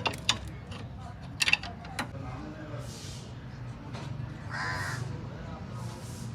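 A crow cawing: one harsh call about four and a half seconds in, with a fainter one before it, over a steady low hum. A few sharp metallic tool clicks come in the first two seconds.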